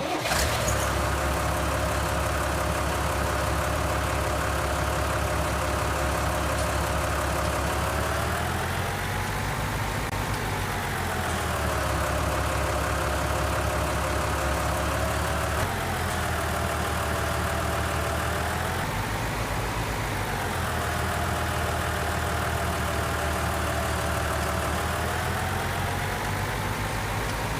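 Heavy diesel engine idling steadily, revving up and settling back several times: a long swell about eight seconds in, brief ones around sixteen and twenty seconds, and a slower one near the end.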